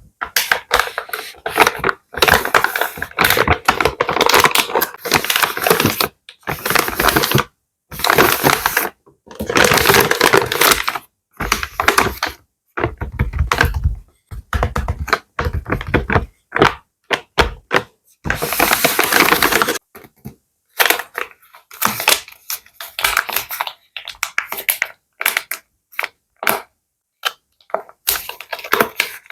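Plastic bags crinkled and rustled close to the microphone, in loud crackling bursts of up to about two seconds, broken by short silent pauses.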